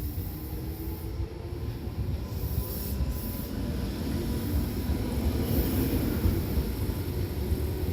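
Tobu Tojo Line electric train moving along the platform, a heavy rumble of wheels with a faint steady whine, growing gradually louder.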